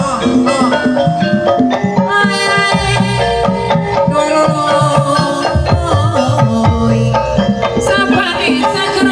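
Kuda lumping accompaniment music played continuously, with hand-drum strokes under sustained and wavering melodic instrument lines.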